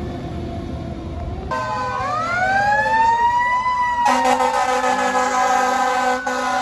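Fire truck siren sounding over the engine: a falling wail, then a siren winding up in pitch from about two seconds in. About four seconds in, a steady, loud air horn blast takes over.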